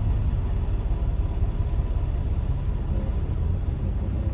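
Steady low rumble of a semi-truck's diesel engine and road noise heard from inside the cab.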